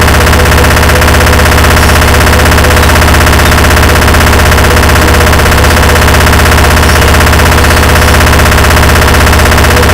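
Harsh noise music: a dense wall of heavily distorted, clipped electronic noise pulsing in very rapid repeated hits, steady and at full loudness throughout.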